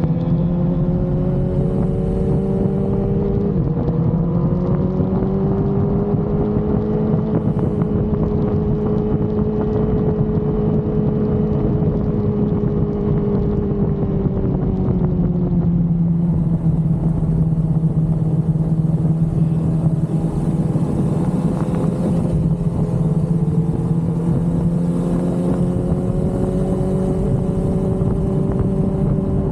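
Sport motorcycle engine running at a steady cruise, its pitch easing slowly down through the middle and climbing again near the end, over constant wind rush on the microphone while riding.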